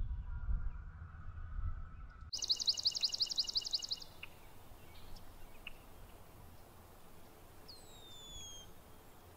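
A low rumble, then from about two seconds in a songbird's fast, high trill of rapidly repeated notes lasting under two seconds. Faint outdoor hiss follows, with a descending whistled bird note near the end.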